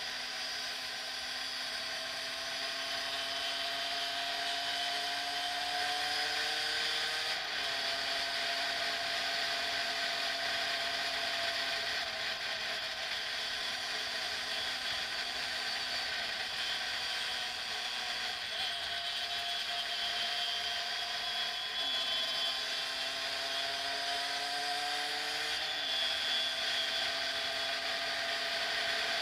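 Derbi X-Treme motorcycle's engine running under way, its pitch climbing slowly through each gear and dropping sharply at the gear changes, about seven seconds in and again near the end. Steady wind hiss on the helmet-mounted microphone.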